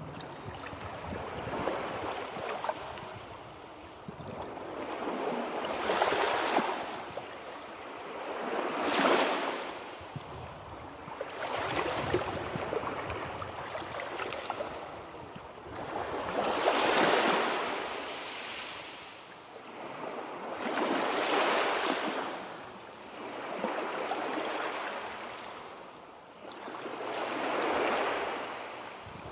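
Sea surf: waves breaking and washing up the shore one after another, each swelling to a hiss and fading, about every four seconds.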